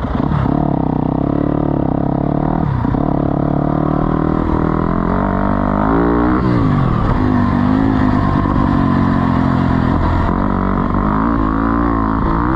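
Four-stroke single-cylinder off-road engine running hard, its pitch rising and falling with throttle and gear changes, with a sharp dip about a third of the way in and a sweep down and back up near halfway.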